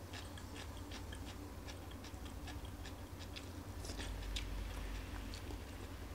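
A person chewing a mouthful of stir-fried vegetables close to the microphone: a run of small, crisp mouth clicks and crunches, about three a second.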